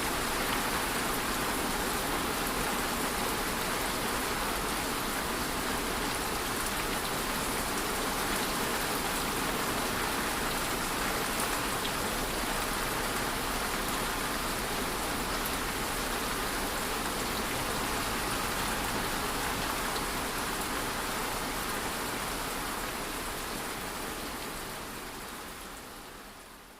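Steady rain sound as a sleep-aid white-noise bed: a dense, even hiss of falling rain that fades out over the last few seconds.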